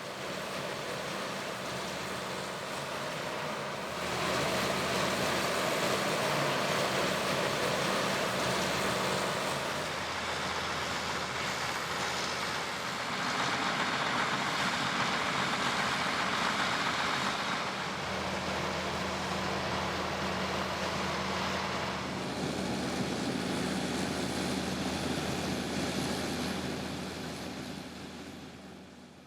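Manure agitation boat running on a dairy lagoon: a steady engine drone under the loud rushing churn of agitated manure. The sound shifts in loudness and balance several times and fades out near the end.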